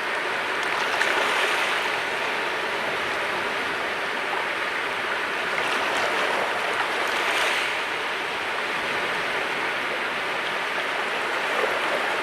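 Sea waves washing on a rocky shore, a steady rush of water that swells slightly a second or so in and again around the middle.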